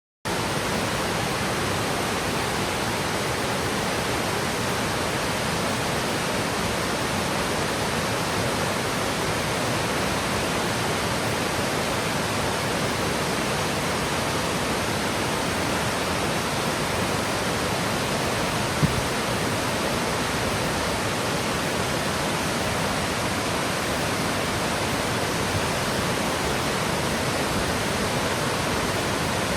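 Yudaki waterfall, a 70 m cascade sliding down a slope of lava rock, rushing steadily in an even, unbroken wash of water noise. One brief knock sounds about two-thirds of the way through.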